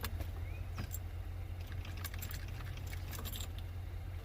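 Steady low hum of an idling vehicle engine, with a few light clicks and jingles. No cranking is heard: the boat's engine is getting no power through the jumper cables.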